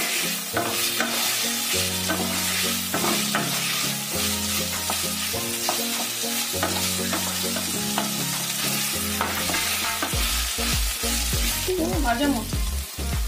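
Chopped capsicum and onion-tomato masala sizzling in oil in a nonstick kadhai over a low flame, while a spatula stirs and scrapes it with many short strokes.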